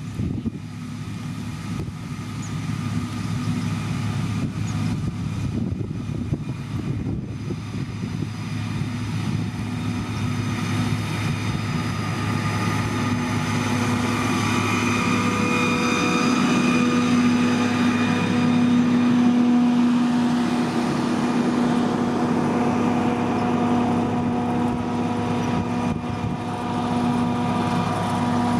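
Engine of heavy road-construction machinery running steadily with an even tone, growing louder over the first two-thirds and then holding.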